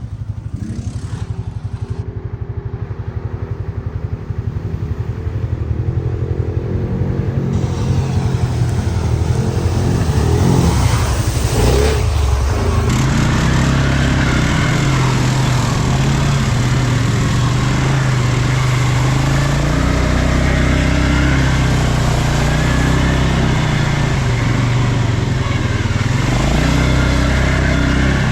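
ATV engine running under way on a ride, its note rising and falling slightly with the throttle and getting louder about ten seconds in.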